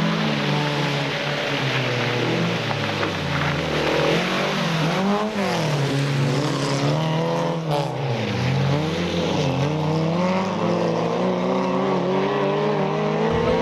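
Racing car engines being revved hard, their pitch climbing and dropping again and again through acceleration, gear changes and lifting off.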